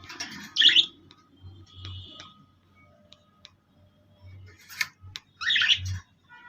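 Birds calling, with two loud harsh calls, one about half a second in and one near the end, and fainter short chirps between them.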